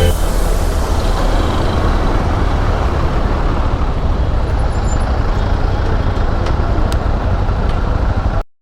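Steady road and wind noise from riding a motorcycle in traffic, cutting off suddenly near the end.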